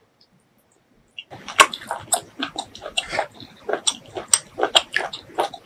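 Close-miked wet chewing of spicy beef tripe: rapid smacking and squelching clicks that start about a second in and carry on without pause.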